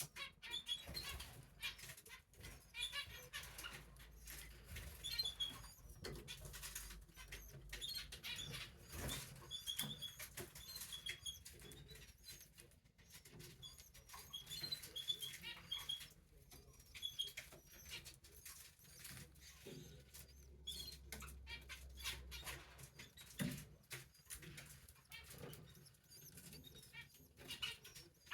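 Canary chicks, nearly three weeks old, making faint high cheeps in short scattered bursts, with rustling, fluttering and scratching as they shift about in the nest.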